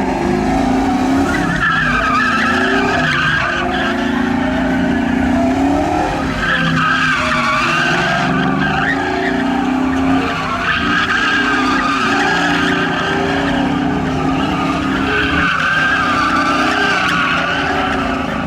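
A car doing donuts, its tyres squealing in several long, wavering stretches over the engine running at high revs.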